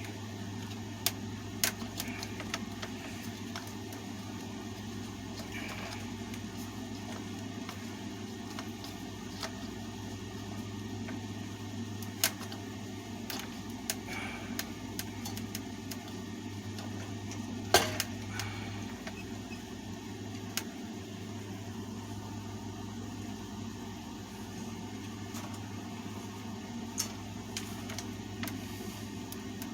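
Scattered sharp clicks and knocks of fan parts being handled and taken apart, over a steady low mechanical hum.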